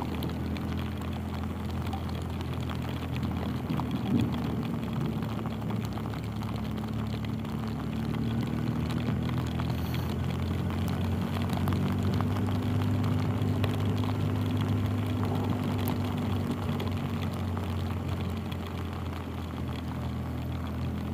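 BMW R 1250 GS Adventure's boxer-twin engine running steadily on the move, a low drone under wind noise. Its pitch and level rise a little around the middle, then ease off.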